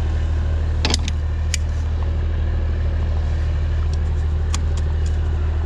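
Tanker truck engine running steadily with a low drone, with a few short sharp clicks or rattles: two about a second in, one soon after, and two more near the end.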